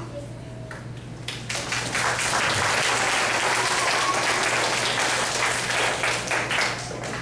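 Audience applauding: clapping starts about a second in, swells to a dense steady patter, and thins out near the end.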